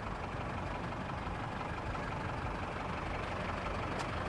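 Steady street ambience with a vehicle engine running at idle, and one short sharp click near the end.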